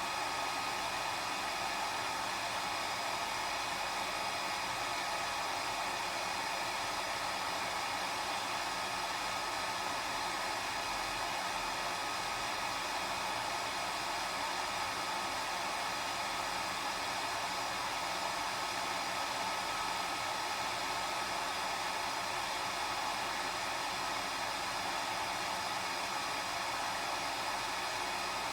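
Hair dryer running steadily: an even, unchanging rush of air with a faint high whine from the motor.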